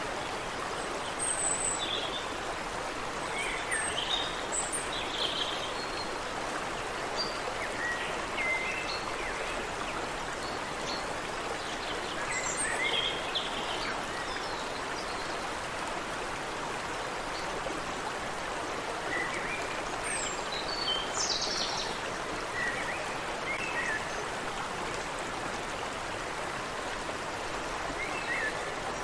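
Creek water running steadily, with short bird chirps and calls coming and going over it.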